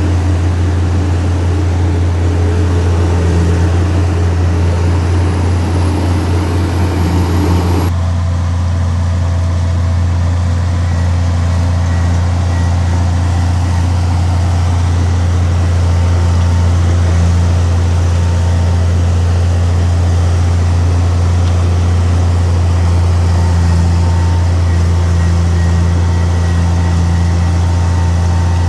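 Heavy earthmoving machine's diesel engine running with a steady, loud low drone. The higher-pitched machine noise changes abruptly about eight seconds in.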